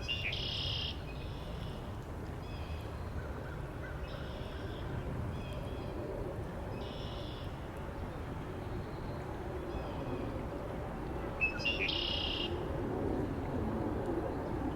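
Steady wind over the lake, with birds calling repeatedly over it. The loudest calls come right at the start and again about twelve seconds in, with fainter ones every second or two in between.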